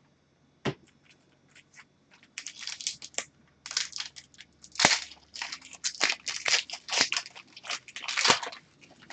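Hockey card pack wrapper being torn open and crinkled: a sharp click under a second in, then about six seconds of irregular crackling and crinkling.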